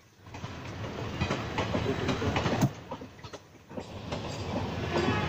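Indian Railways sleeper-class passenger coaches rolling past, their wheels clattering over the rail joints. The noise swells in over the first second, with one sharp, louder clack about halfway, dips briefly, then picks up again.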